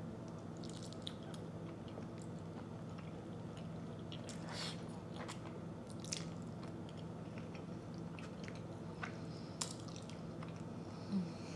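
Mouth noises of eating creamy shrimp linguine alfredo: soft chewing with a few short wet clicks and smacks, over a steady low hum.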